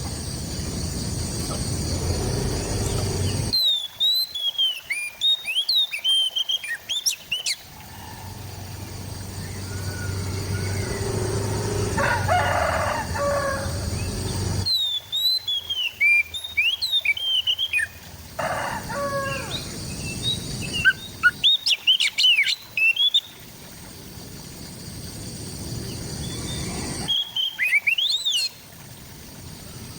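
Oriental magpie-robin (kacer) singing in four bursts of rapid, varied whistled phrases, with steady background hiss between them. A fainter, lower call comes twice in the gaps.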